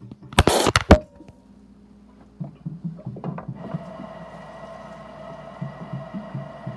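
A brief, loud rush and clatter about half a second in. From about three and a half seconds, tap water runs steadily into a small watering can, with a level ringing tone from the can over the stream and low irregular gurgling bumps.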